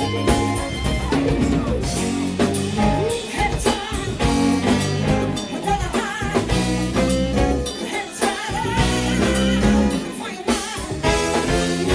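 Live soul band playing: a singer over drum kit and electric guitar, with a steady beat.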